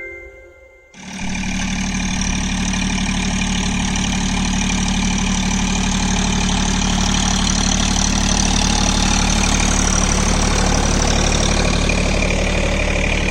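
John Deere 3028 EN 28 hp mini tractor's diesel engine running steadily, coming in about a second in.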